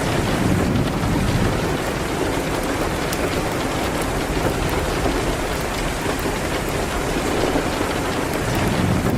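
Steady rain, an even dense hiss with a low rumble underneath and faint scattered ticks.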